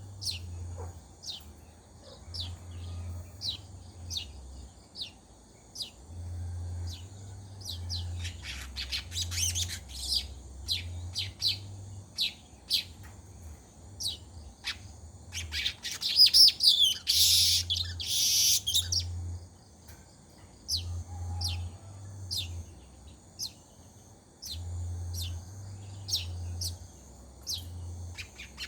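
Weaver birds (manyar) calling: a regular run of short, high, falling chirps, about two a second. The birds break into dense chattering about eight seconds in and again, louder, around the middle. A low hum comes and goes underneath.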